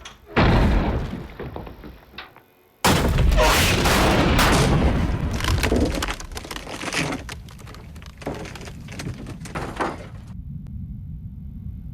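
A metal rod driven by high-pressure air slamming into a block of wood during a destructive toughness test. There is a sharp impact just after the start, then after a brief silence a loud crash near three seconds in that trails off into scattered cracks of the wood breaking. A low steady hum is left near the end.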